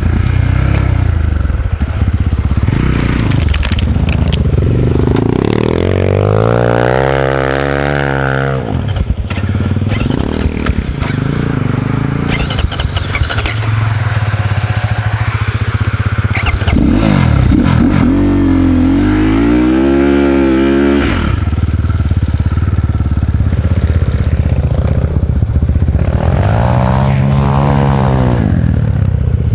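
Enduro dirt bike engine running under throttle, the revs climbing and dropping in repeated surges, with strong pulls about six seconds in, in the middle, and near the end.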